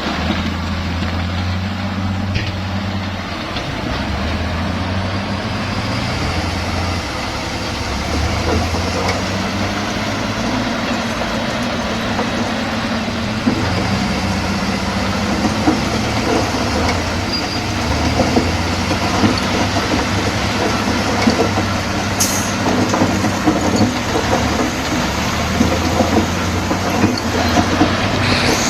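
Crawler bulldozer's heavy diesel engine running under load, its note rising and falling every few seconds, with metallic clanking that grows more frequent in the second half.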